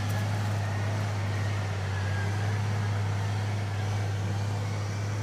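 An engine running steadily at one constant speed, a low unbroken drone.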